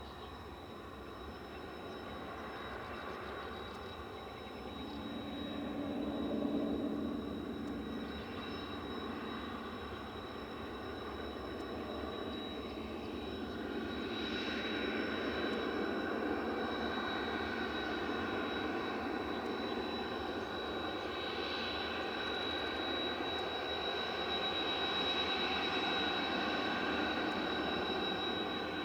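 Jet aircraft engine running, a steady high turbine whine over a rushing noise that swells a few times and grows louder in the second half.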